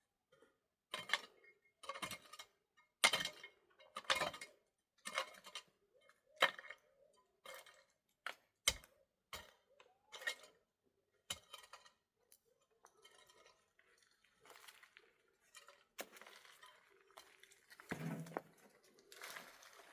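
A string of sharp clinks and knocks, about one a second, giving way about twelve seconds in to softer rustling and handling noise.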